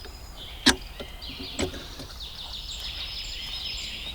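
A few sharp clicks and knocks of a cabin's lock and chain being worked, the loudest a little under a second in. A songbird sings high, rapid trills over them.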